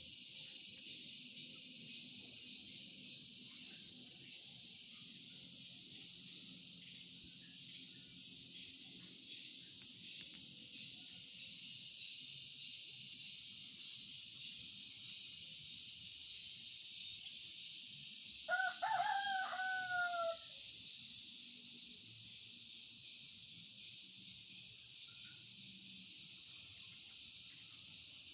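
A rooster crows once, about two thirds of the way through, a call of about two seconds that falls in pitch at the end. Under it runs a steady high-pitched insect chorus.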